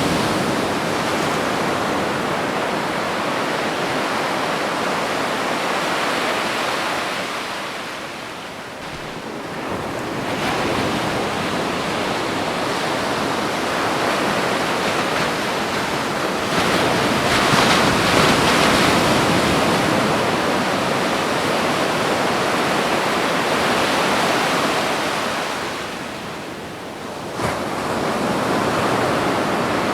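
Ocean waves breaking on a beach: a continuous wash of surf that swells and ebbs. It dips twice, about eight seconds in and again near the end, and is loudest just past the middle.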